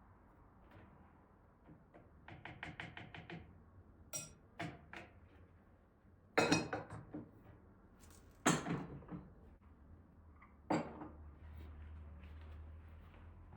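Hard household objects being handled: a quick run of about eight clicks, a few light knocks, then three louder clunks with a short ring, like dishes or utensils being set down.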